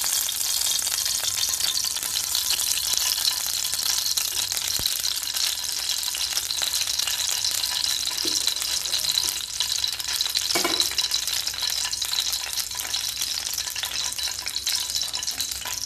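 Cooking oil sizzling and crackling in a hot kadai, a dense steady hiss, with a couple of brief knocks about two-thirds of the way through.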